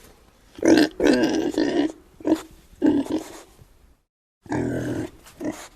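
An animal's grunting calls, several short ones in a row, broken by a moment of silence about four seconds in before another call.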